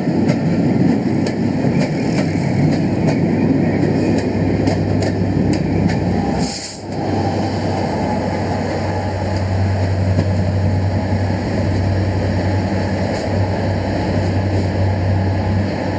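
A Pullman train rolling past on the rails: a steady rumble with a low hum and clicks from the wheels over rail joints in the first few seconds. The sound dips briefly about six and a half seconds in, then the steady rumble and hum continue.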